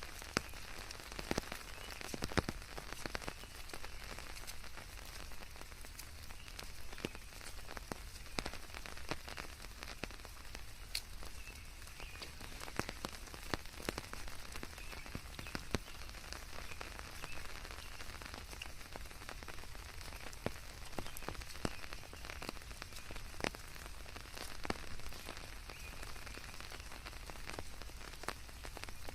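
Steady rain falling, with many scattered close drops ticking and pattering on surfaces, blended with a white-noise hiss.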